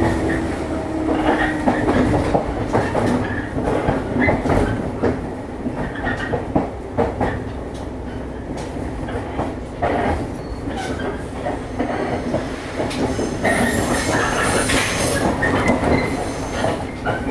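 Running noise inside a JR East 115 series electric train car: a steady rumble with irregular clicks of the wheels over rail joints. From about thirteen seconds in, a high screech from the wheels lasts a few seconds.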